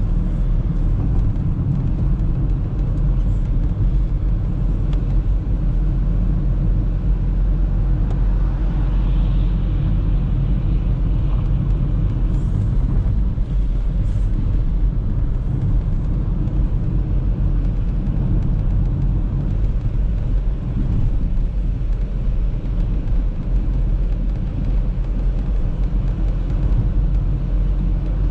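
Steady low rumble of an Audi A3 driving: engine and tyre road noise.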